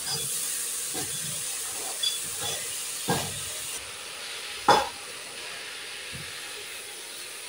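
Chopped pumpkin sizzling in a hot kadai over a wood fire, with a few clinks and scrapes of a steel plate against the pan, the sharpest about four and a half seconds in.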